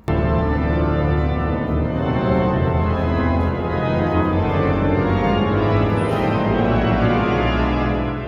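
Organ playing full, sustained chords that start abruptly and fill the passage at a loud, even level.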